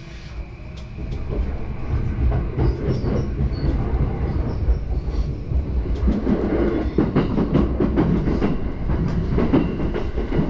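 JR Yamanote Line electric train running on the rails, heard from inside the car: a low rumble that grows louder about a second in, with repeated clicks of the wheels over the track.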